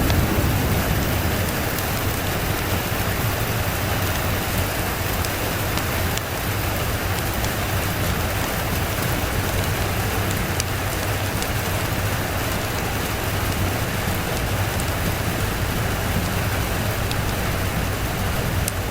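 Steady rain falling on a surface, an even hiss, with the tail of a low thunder rumble dying away in the first second.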